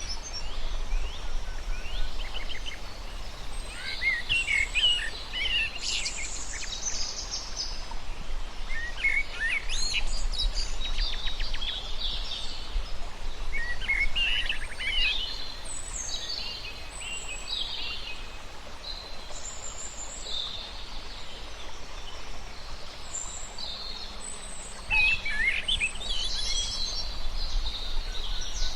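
Several songbirds chirping and singing in overlapping trills and quick whistled notes, over a steady low background rumble.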